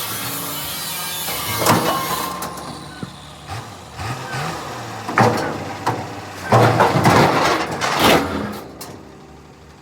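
Truck engine running steadily, with a loud hiss at the start and several short, loud noisy bursts over it.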